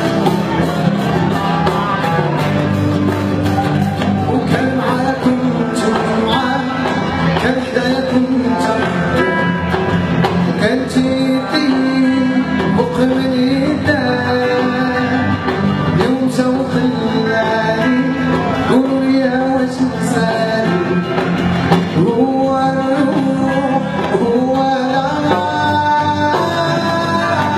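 Live band music: guitar and percussion under a melodic lead line that glides between notes.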